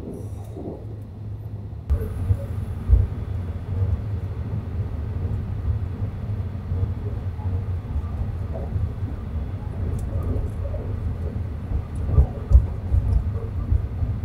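Train running on the rails: a steady low rumble with a few heavier thumps, and the sound shifts abruptly about two seconds in.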